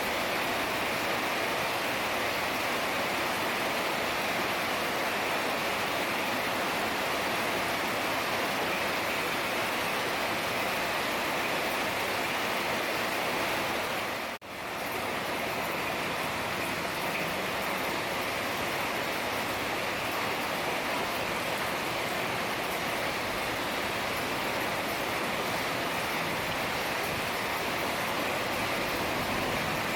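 Heavy rain falling in a steady, even downpour. About halfway through, the sound drops out for a moment and fades straight back in.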